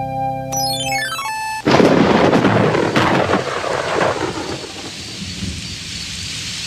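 A held chord of cartoon music ends with a quick descending run of notes, then a loud thunderclap about two seconds in rumbles away into steady heavy rain.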